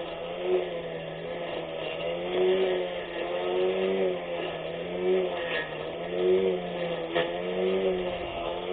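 24V brushless electric lawn mower motor running with a steady hum and whine, its pitch sagging and recovering every second or so. Two short clicks come about five and a half and seven seconds in.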